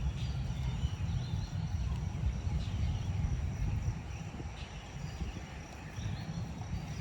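Wind buffeting the microphone in a steady low rumble, with a few faint high chirps over it.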